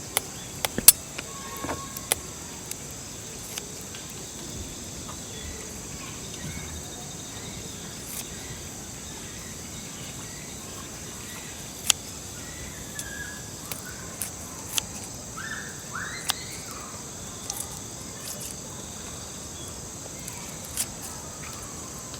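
A steady high drone of crickets and other insects in a forest, with a few short bird chirps. Sharp clicks come and go through it now and then.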